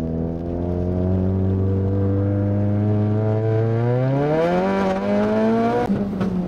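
Ford Focus RS's turbocharged four-cylinder engine pulling under hard acceleration, heard from inside the cabin. The revs climb steadily and then faster over the last couple of seconds, and the note breaks off briefly near the end.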